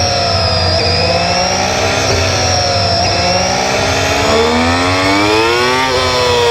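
Motorcycle engines running together in a group ride, their pitches wandering up and down. About four seconds in, one engine climbs steadily in pitch as it accelerates, then drops near the end as the rider shifts or eases off.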